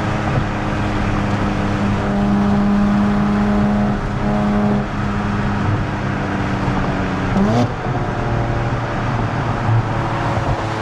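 Nissan Z Nismo's twin-turbo V6 running at a steady cruise through a Nismo Track exhaust, over road and tyre noise. About seven and a half seconds in, the engine note rises briefly in pitch, then settles back lower.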